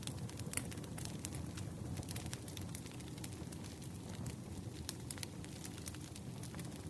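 Campfire crackling: frequent irregular sharp pops and snaps of burning wood over a steady low rush of flame.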